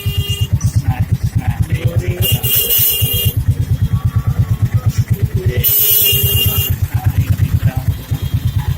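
Small motor vehicle engine running with a rapid, even putt-putt pulse.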